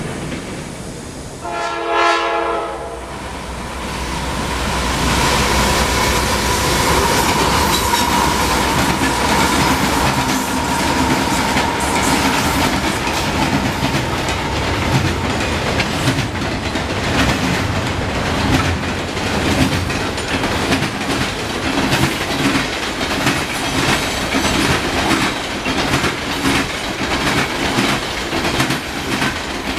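A train horn sounds briefly about two seconds in, then a long freight train of double-stack container cars and refrigerated boxcars rolls past: a steady rumble of steel wheels on rail with a thin wheel squeal for several seconds, then a regular clickety-clack as the wheels cross the rail joints.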